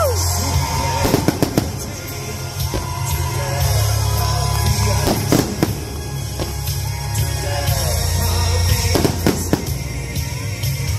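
Fireworks going off over loud music with a heavy bass line. There are sharp bangs and crackles in clusters about a second in, around five seconds in and again near nine seconds.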